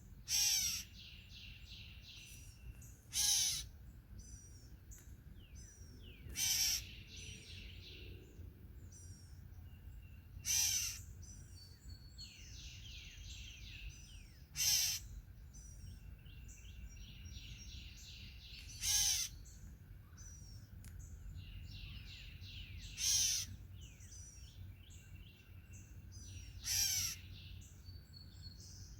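A bird at a feeder, taken for a gray catbird, giving a loud call about every four seconds, eight times, with softer chirping notes in between.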